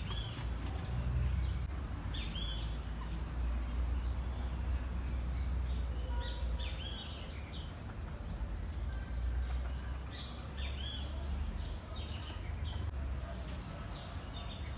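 Birds chirping, short high calls repeated again and again, over a steady low rumble of outdoor background noise.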